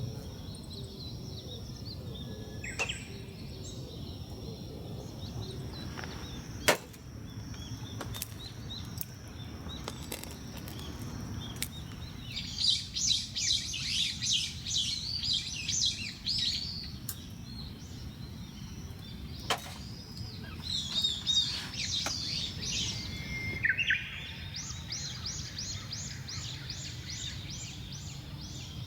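A small bird singing three phrases of rapid, high, repeated chirping notes, over a steady low outdoor background, with a few sharp clicks in the first half.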